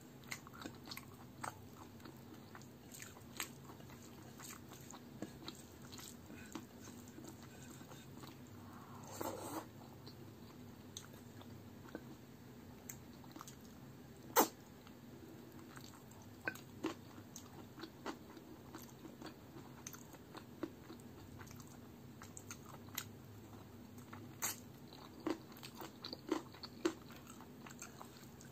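Close-miked wet chewing and lip-smacking of a mouthful of rice and spinach chicken curry eaten by hand, with scattered sharp mouth clicks; the sharpest click comes about halfway, and there is a brief louder rustle of fingers mixing rice and curry around a third of the way in.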